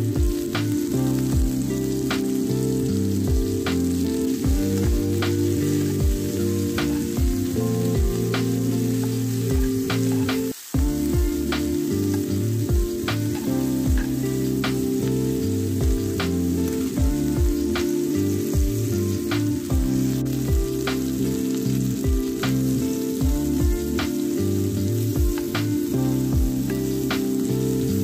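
Onions, mushrooms and green beans sizzling in oil and butter in a frying pan, with the spatula clicking and scraping against the pan as they are stirred.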